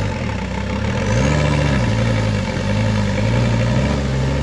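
Off-road truck's engine running on a rocky climb, the revs rising and falling three times in short throttle blips.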